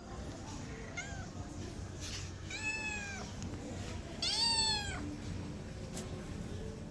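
Domestic cat meowing: a short call about a second in, then two longer meows that rise and fall in pitch, the last one the loudest.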